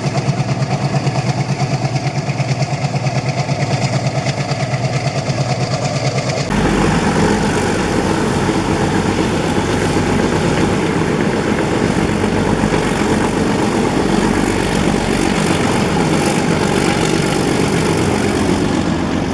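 WDM-3D ALCo diesel-electric locomotive's engine chugging with a fast, even pulsing beat. About six and a half seconds in, the sound switches abruptly to a louder, heavier rumble with a wash of noise over it as the locomotive works past.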